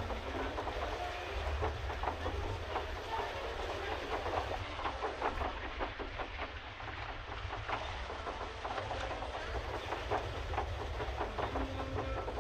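Pedal boat under way: a steady clatter of rapid small clicks and knocks over a low continuous rumble.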